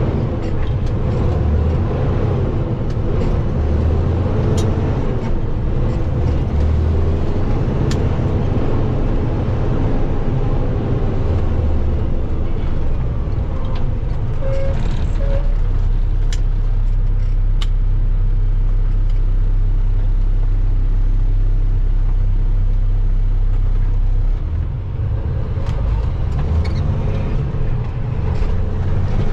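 Big-rig truck driving, its engine and road noise making a loud low drone. The pitch wavers through the first ten seconds or so, then holds steady.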